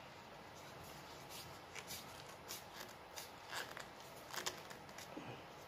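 Faint, scattered light clicks and taps of PVC pipe pieces and fittings being handled and fitted together.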